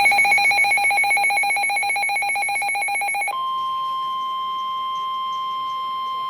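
Weather radio alert tones: a rapidly pulsing, buzzy electronic tone for about three seconds, then a steady single-pitch alarm tone, the weather radio's warning alarm tone. It signals that a new warning is about to be broadcast.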